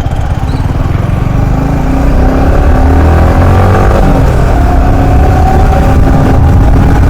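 Motorcycle engine pulling away and speeding up, getting louder about two seconds in, then running steadily at speed.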